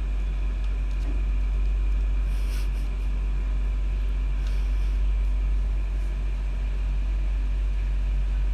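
A steady low hum with faint steady tones over it, and a couple of faint soft rustles.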